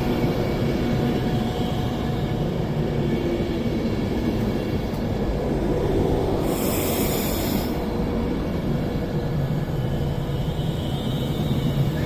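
Class 390 Pendolino electric train standing at the platform, a steady low rumble of running equipment. A brief high hiss comes about seven seconds in.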